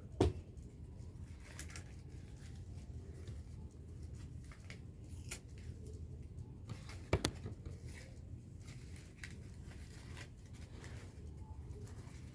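Faint handling of paper and tape: light rustling with a few sharp clicks, the loudest near the start and about seven seconds in, over a steady low hum.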